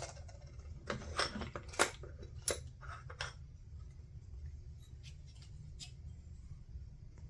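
Light clicks, taps and short scrapes of a circuit board and small hand tools being handled on a workbench, most of them in the first three seconds, over a steady low hum.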